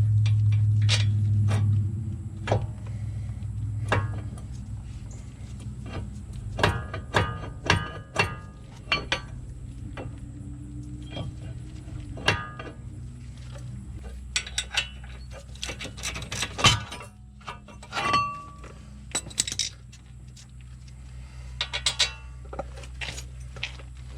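Metal parts and hand tools clinking and knocking in short, irregular bursts while brake parts are handled, with a steady low hum during the first couple of seconds that fades out.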